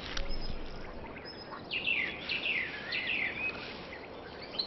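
White-tailed eagle calling: a run of high calls, each falling in pitch, starting about a second and a half in, over a faint steady background hiss.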